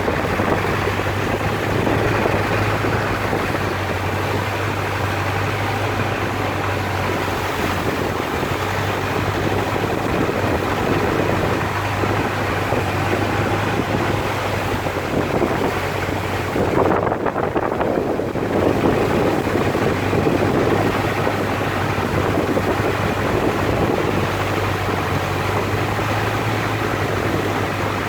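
Boat engine running steadily with a low hum, under water rushing past the hull and wind on the microphone. Just past halfway the rushing swells briefly.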